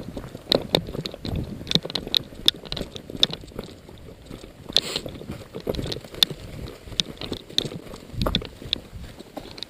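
Irregular footsteps on rough ground with rustling and clicking of gear, a few steps a second.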